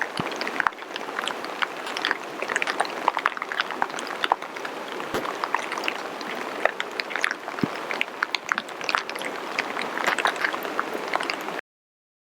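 Water falling and splashing: a steady wash of noise dotted with many sharp drip and drop ticks, cutting off abruptly near the end.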